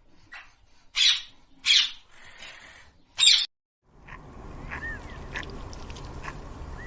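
Three short, loud, harsh animal calls. After a sudden cut, a steady outdoor background follows, with two brief bird chirps and a few light clicks.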